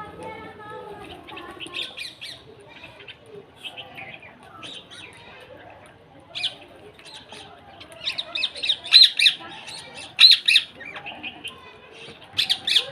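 Birds calling with a mix of short chirps and harsh squawks. The calls come thickest and loudest in clusters about two-thirds of the way through and again near the end.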